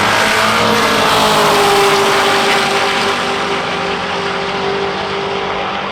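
Race car engines running hard at high revs during a roll-race pass, loud over a dense rush of noise. The engine note sinks a little in pitch over the first second or two, then holds steady.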